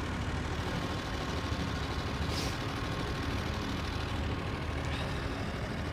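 Steady low rumble of a running engine, with a brief faint hiss about two and a half seconds in.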